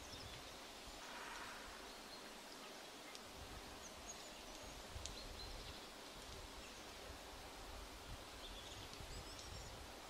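Quiet forest ambience with scattered faint, high bird chirps, a brief rustle about a second in, and low rumbling underneath.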